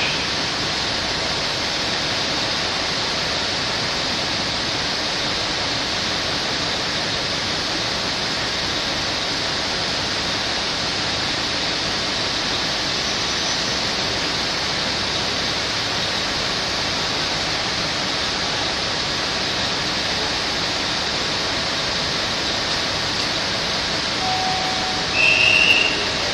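Steady rushing noise from a standing electric-hauled passenger train. Near the end comes a short, high whistle blast, a departure signal.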